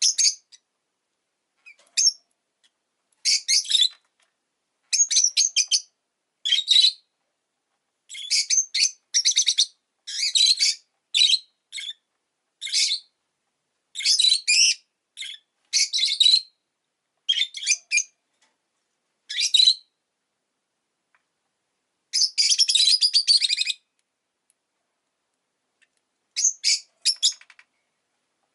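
Rosy-faced lovebird chirping: short bursts of rapid, high-pitched chirps separated by brief silences, with one longer run of chirping about 22 seconds in.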